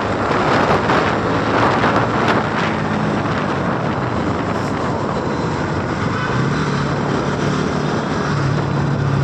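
Motorcycle running at speed with wind rushing over the microphone; a steady low engine drone comes up over the last few seconds.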